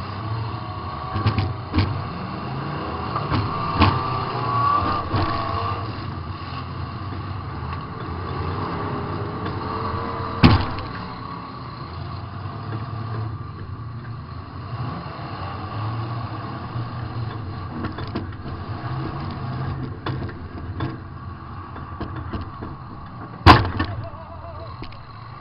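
Demolition derby car's engine running, heard from inside the car, with metal-on-metal crash impacts as cars collide. The two loudest hits come about ten seconds in and near the end.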